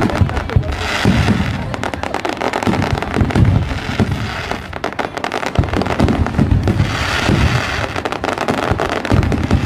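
Fireworks display: many aerial shells bursting at once, a dense crackling of close-packed pops with repeated low thumps underneath.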